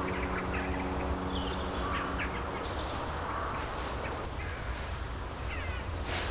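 Birds chirping in short calls over a steady low rumble, while a music track fades out in the first couple of seconds.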